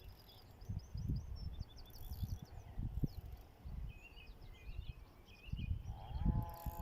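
Wind buffeting the microphone in uneven gusts, with small birds chirping in quick runs of short high notes. About six seconds in, a steady droning tone with several overtones starts up and holds.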